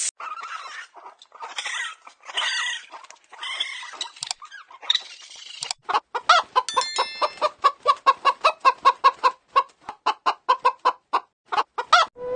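Chickens clucking: a few rough, scratchy calls, then from about six seconds in a fast run of short clucks, about four a second.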